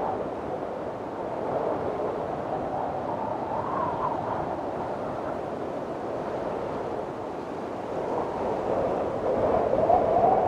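Strong wind blowing in gusts, a steady rush with a wavering howl that rises about four seconds in and swells loudest near the end.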